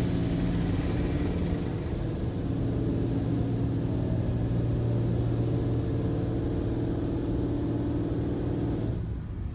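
Touchless automatic car wash heard from inside the car. Hissing high-pressure water spray fades away over the first second or two, over a steady low machine hum that drops off near the end.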